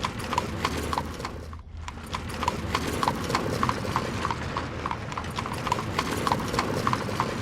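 Steady, even clip-clop knocking, roughly two and a half knocks a second, like hooves on a hard surface, over a low steady hum.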